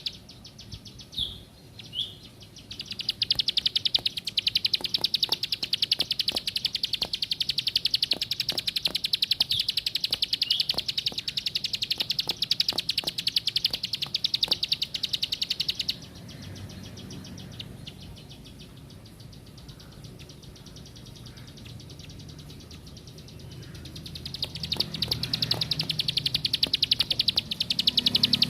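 Ciblek sawah, a small Indonesian prinia, singing a fast, buzzy run of rapid high notes. It gives two short notes, then sings for about thirteen seconds, goes quiet for several seconds, and starts again near the end.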